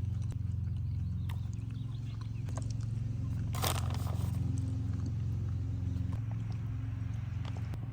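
A steady low hum with scattered small clicks and a short noisy rustle about three and a half seconds in.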